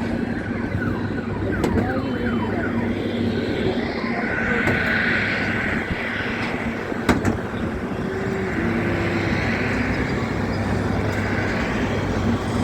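Steady vehicle noise with a constant low hum, and a single sharp click about seven seconds in.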